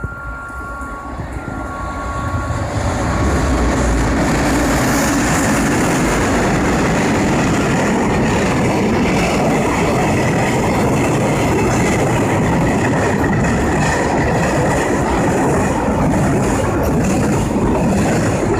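Freight train hauled by an EF510 electric locomotive passing through a station without stopping. Its noise builds over the first few seconds, then holds as a steady, loud rumble of wheels on rails as the wagons run by. A two-tone electronic beeping fades out about two seconds in.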